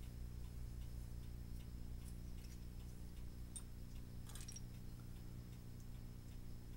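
A mechanical clock ticking steadily, about two ticks a second, over a low steady hum. A short burst of small clicks comes a little past four seconds in.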